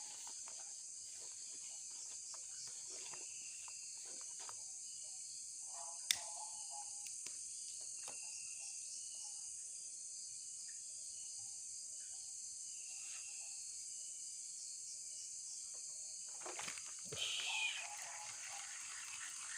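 Night insect chorus, a steady high-pitched shrilling, with a single sharp click about six seconds in and a short call near the end.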